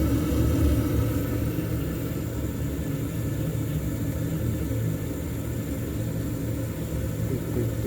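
Old Tempstar gas furnace's draft inducer motor running with a steady low hum, during the ignition sequence while the hot surface igniter heats up, before the burners light.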